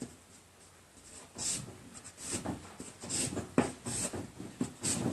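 Drawing strokes scratching across paper: a run of short strokes, about two a second, starting a little over a second in.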